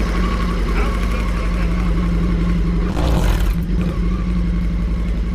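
Motorcycle engine idling steadily, with a short burst of noise about three seconds in.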